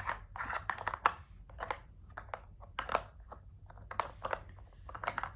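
Hands handling treats and a plastic treat toy: irregular rustling with light clicks and clatters, about one or two a second.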